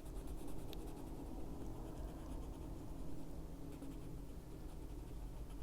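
Faint scratching of a Prismacolor coloured pencil shading on coloring-book paper.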